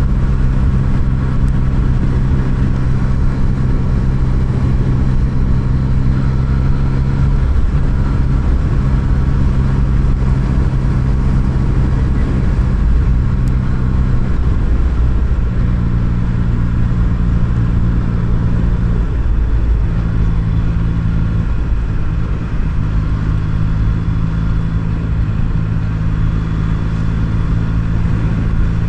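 Yamaha MT-09 inline three-cylinder engine running steadily under way, its note dipping and shifting pitch several times as the throttle eases and opens, over a low wind rumble.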